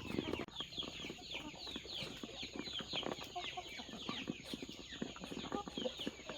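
A flock of young chickens peeping steadily, many short falling peeps overlapping, with light tapping sounds mixed in.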